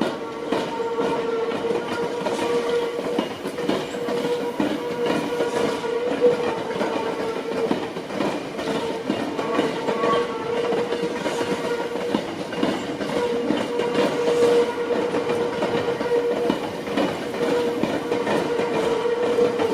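Tokyo Metro 18000 series electric train running, with a steady hum that holds one pitch over rattling wheel-and-rail clatter and scattered clicks.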